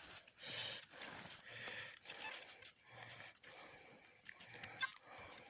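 Faint rhythmic scrubbing as fingers rub a corroded copper coin with snow to clean it, with short strokes repeating roughly every half second or so.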